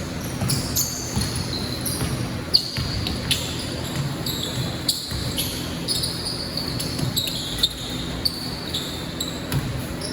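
Basketball bouncing on a court floor amid many short, high-pitched sneaker squeaks from players moving; one sharp thump stands out about two and a half seconds in.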